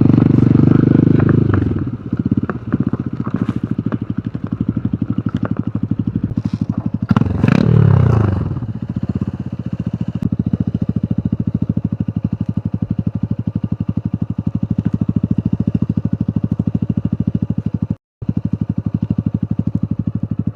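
Hero Hunk motorcycle's single-cylinder engine, loud under throttle at first, then eased off. About seven seconds in it revs up briefly and falls back, then settles to a steady, evenly pulsing idle. The sound cuts out for a moment near the end.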